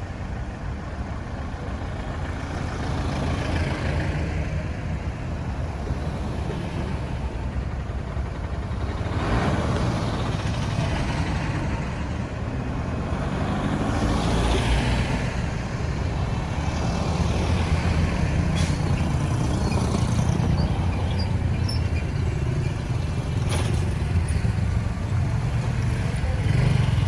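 Road traffic noise: steady engine rumble and tyre hiss from motor vehicles, with vehicles passing by, the loudest about nine and fourteen seconds in.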